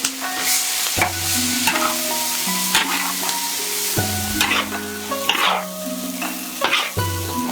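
Food sizzling as it fries, stirred with repeated scraping strokes about once a second, over background music with a simple stepping melody.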